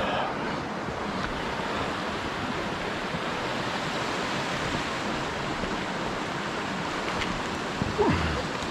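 Steady rush of a small river flowing over its bed, with a short louder knock near the end.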